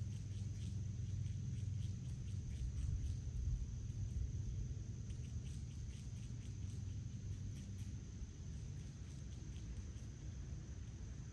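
Outdoor backyard ambience: insects trill steadily at a high pitch over a low rumble, with scattered faint ticks or chirps.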